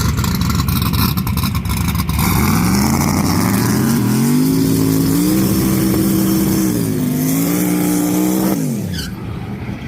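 Drag racing car doing a burnout: loud, crackling engine noise at first, then the revs climb in steps and are held high while the tires spin, before dropping away sharply near the end.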